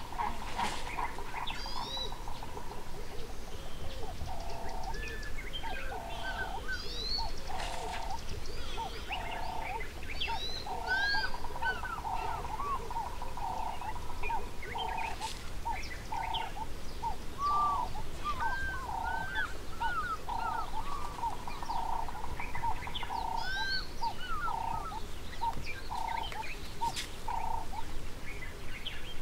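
Wild birds calling: a short hooting note repeated evenly, a little faster than once a second, with assorted higher chirps and whistles from other birds over it.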